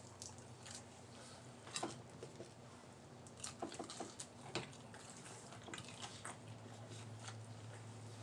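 Faint chewing and wet mouth sounds of people eating, with scattered small clicks and a few sharper ticks over a low steady hum.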